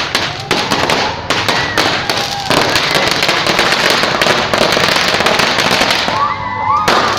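Firecrackers bursting in a long, rapid run of loud, closely packed cracks and bangs.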